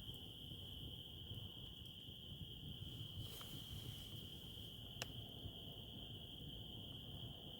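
Crickets chirring in one continuous, steady high trill, over a low background rumble, with a single sharp pop about five seconds in.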